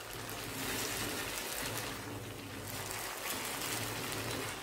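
Boiled jackfruit frying in coconut oil in a non-stick pan, a steady sizzle as it is stirred with a spoon.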